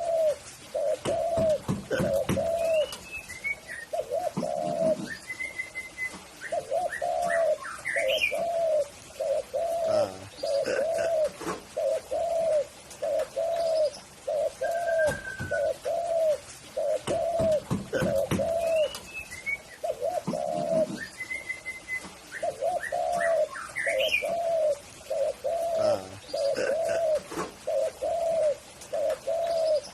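Spotted dove (tekukur) cooing, a long rhythmic run of short low coos about one and a half a second with brief pauses. Short higher chirps and whistles of smaller birds come in now and then.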